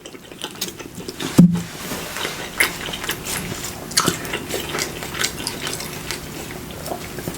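A person chewing food close to the microphone: a steady run of crackling, clicking, wet mouth sounds, with a brief low hum about a second and a half in.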